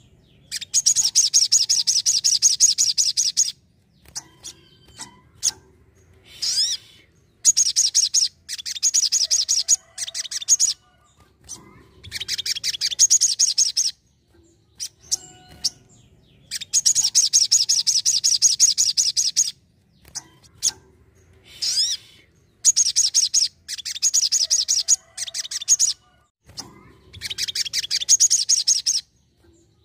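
Sogon sunbird singing: about six bursts of very rapid, high-pitched trilling, each lasting two to four seconds, with short single chips in the pauses between them.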